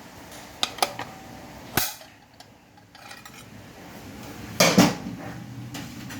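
Metal parts of a 5R55S automatic transmission clinking and knocking against each other as it is taken apart: a few light clinks in the first two seconds, then a louder clatter near the end.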